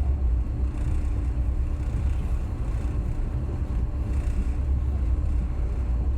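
Passenger train running between stations: a steady low rumble with a faint steady hum above it.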